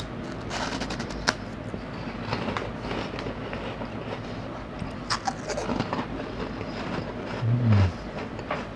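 A person chewing a puffed snack stick close to a clip-on microphone: irregular crunching and mouth clicks throughout, with a short hummed 'mm' near the end.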